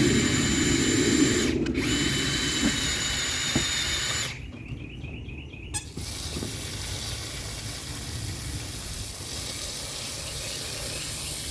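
Ryobi power drill spinning a Vevor garden auger bit in soil: a steady high motor whine over a low churning rumble, dropping out briefly about one and a half seconds in and stopping about four seconds in.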